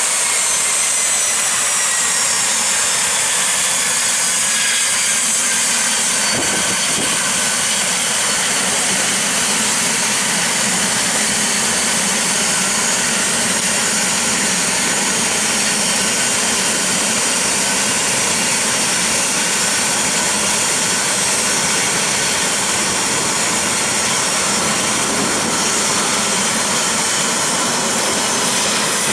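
Pilatus PC-24's twin Williams FJ44 turbofan engines running loud, a steady rush with high-pitched whine tones that slowly fall in pitch over the first several seconds.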